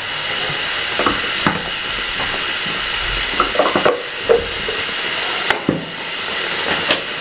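Thick spiced masala paste sizzling steadily as it fries in an aluminium pot, with short clicks and knocks of a steel ladle against the pot now and then as it is stirred.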